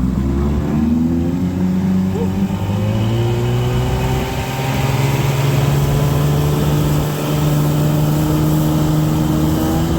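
Small outboard motor running with the boat under way, its pitch rising over the first few seconds as it speeds up, then holding steady.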